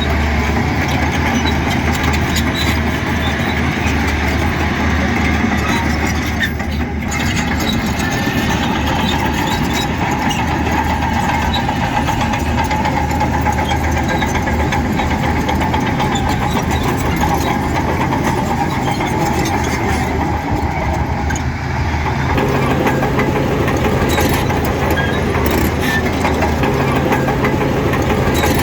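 Diesel engine of heavy earthmoving machinery running steadily, its note shifting about three quarters of the way through.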